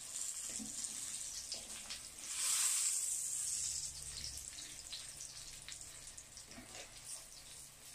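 Slices of stuffed brinjal shallow-frying in oil in a pan: a hissing sizzle with fine crackles, swelling into a louder rush about two and a half seconds in and then dying down.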